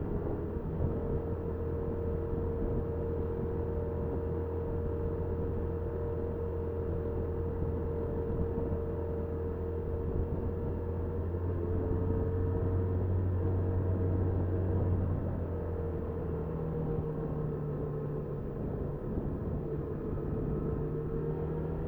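Honda Super Cub 50's small single-cylinder engine running steadily under way, heard through the dashcam with road and wind noise; its steady hum shifts slightly in pitch about two-thirds of the way through.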